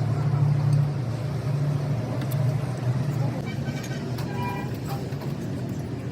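Bulldozer diesel engine running steadily with an even low drone.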